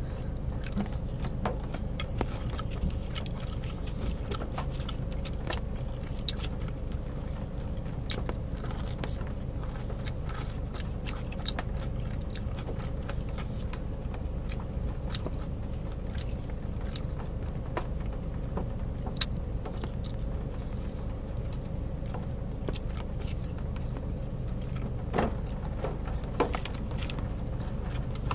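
Close-up chewing and biting of a fried chicken strip, with many small crunches and mouth clicks over a steady low rumble. There are a couple of louder rustles or scrapes near the end.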